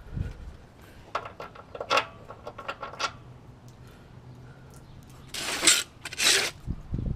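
Small metal pieces clinking and jingling several times, then two short hissing bursts, the loudest sounds, with a low thud near the end.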